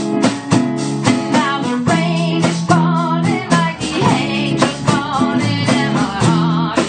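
A live band playing a blues-rock tune on drums, bass and electric guitars, with a lead line wavering in vibrato over the beat, picked up on a phone's microphone.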